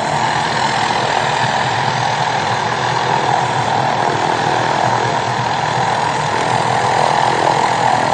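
Police helicopter's engine and rotor running steadily, loud and unchanging.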